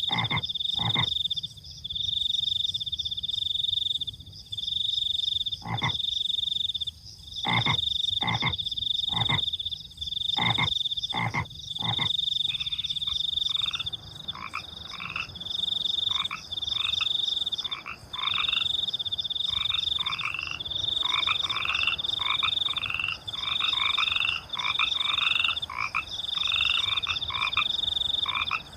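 Frogs croaking with crickets trilling at night. A high cricket trill comes in repeated phrases of about a second. Over it, single deep frog croaks sound in the first half, and from about halfway a busier chorus of short, rising frog calls takes over.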